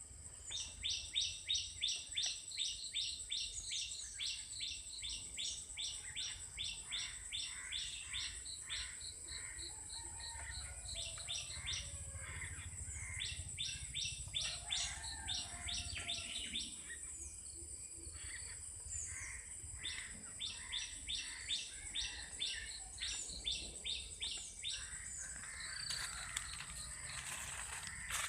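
Woodpecker calling in long runs of evenly repeated sharp notes, about three a second, with pauses between runs. A steady high insect drone goes on underneath, and other small birds give short downward chirps.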